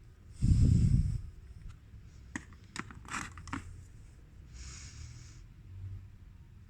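Handling noise from work on a CD player's disc mechanism: a loud rustle about half a second in, then several light clicks and taps of small parts, and a short hiss near five seconds.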